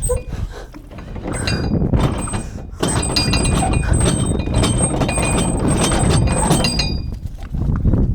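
Metal anchor chain rattling, a dense run of sharp ringing clinks that slackens about a second in and again near the end, over a steady low rumble.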